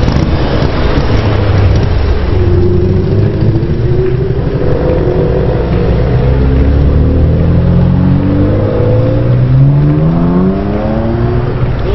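Car engine running loud and accelerating, its pitch climbing in several steps through the middle and latter part.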